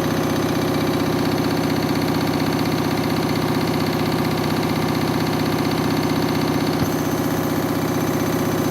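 Washing machine drum spinning an unbalanced load of towels, a steady motor hum with a fast, even pulsing as the machine shakes, and a single small click about seven seconds in.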